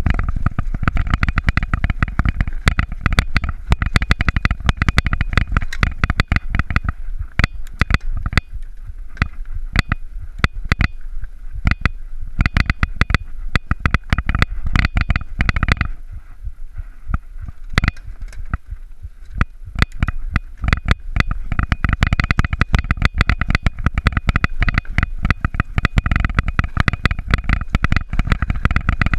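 Mountain bike clattering and rattling over a rough trail, with rapid irregular knocks and a heavy low rumble of wind and jolts on the microphone; it eases for a few seconds a little past the middle.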